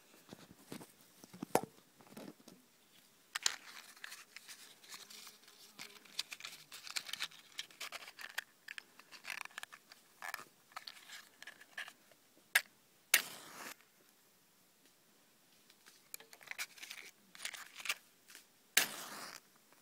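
Wood fire crackling: irregular sharp pops and snaps with rustling, and two short hissing bursts, one about thirteen seconds in and one near the end.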